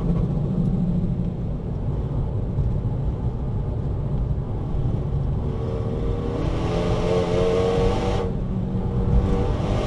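Renault Mégane RS Trophy's turbocharged 2.0-litre four-cylinder with an Akrapovič exhaust, heard from inside the cabin: engine speed falls off the throttle under braking for a corner, then it accelerates hard with rising pitch from about halfway, breaks briefly at an upshift about eight seconds in, and pulls on.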